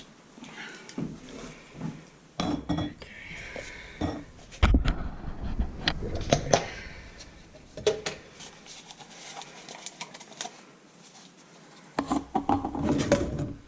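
Metal parts of a garbage disposal's sink mount being handled, clinking and knocking against each other and the sink. There is a heavier thump about four and a half seconds in and a quick run of clatter near the end.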